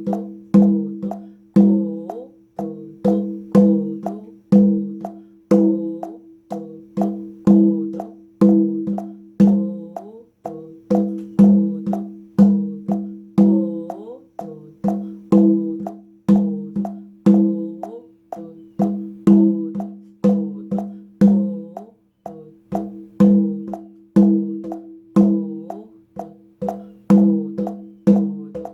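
Hand drum played with open tone strokes, a steady repeating rhythm of about two ringing strikes a second, with the first, third and fourth beats accented.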